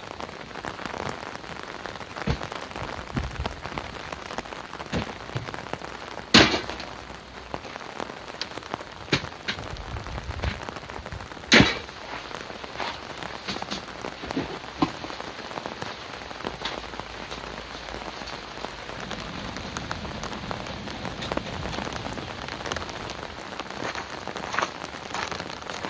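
Steady heavy rain falling, with many scattered sharp drop hits; two much louder hits come about six and eleven and a half seconds in.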